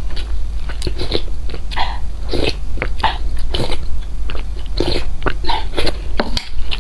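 A person chewing and biting food close to the microphone: an irregular run of short mouth and food sounds, about one to two a second.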